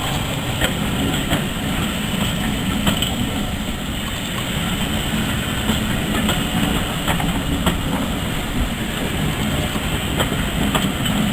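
Heritage railway train running along the track: a steady low rumble with irregular clicks as the wheels pass over rail joints.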